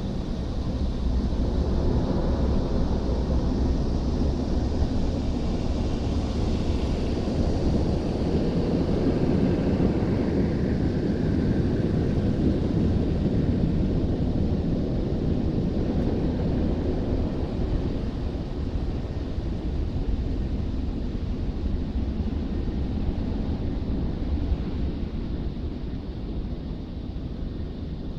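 Tammermatic T700 Lux car wash's air dryer blowers, heard from inside the car, giving a steady rush and rumble of air over the body. It swells a little after the start and eases slightly near the end.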